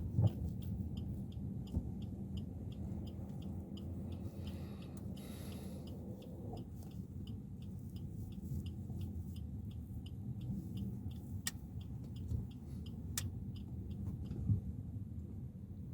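Steady low road and engine rumble inside the cabin of a moving Suzuki Ertiga 1.4, with a faint even ticking about four times a second. Two sharp clicks come near the end.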